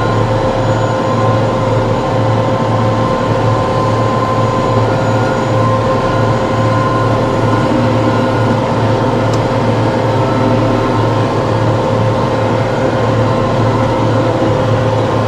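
TYM T654 diesel tractor running steadily at working revs, with a constant high whine on top of the engine hum.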